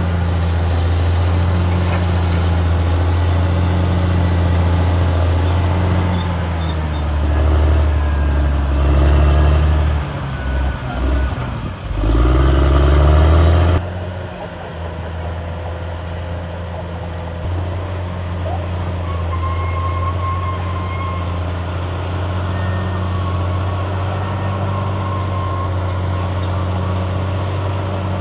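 Caterpillar D6R bulldozer's diesel engine running steadily while working. About ten seconds in the engine note dips, then rises in pitch for a few seconds before dropping back abruptly to a steady running note.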